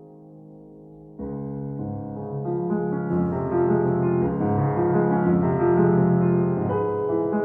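Solo piano music, slow and calm: a held chord fades for about a second, then a new, fuller phrase of chords enters and swells.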